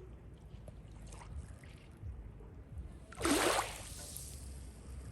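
Water splashing: one loud splash about three seconds in, over a steady low rumble.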